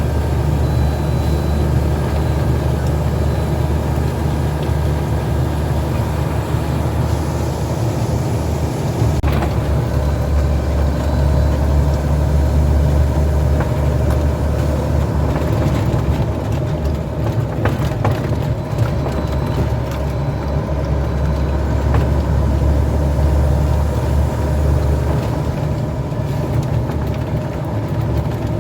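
Heavy truck driving on the road: a steady low engine drone with road noise.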